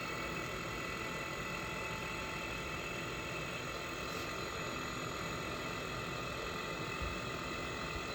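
Chinese diesel air heater's fan motor running steadily with a whine of several steady tones, during the glow-plug preheat of start-up before the fuel pump begins to tick.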